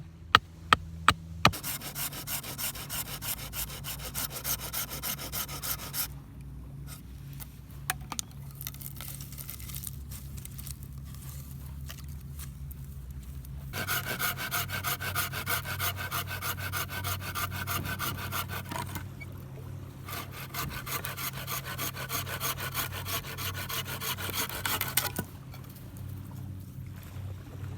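Firewood being cut with a hand saw: four long bouts of quick rasping back-and-forth strokes, with short pauses between them.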